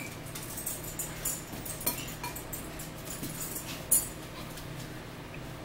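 Close-up chewing of a turkey burger: wet mouth clicks and lip smacks, busiest just after the bite, with one sharper click about four seconds in.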